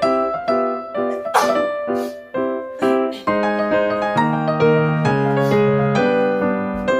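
Background piano music: a repeating pattern of struck notes, moving into held lower chords partway through.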